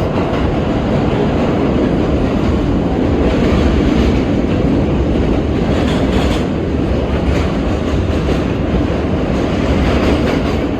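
R32 subway car running at speed, heard from inside the car: a steady loud rumble of wheels on rail, with a few clacks over rail joints about six to seven seconds in.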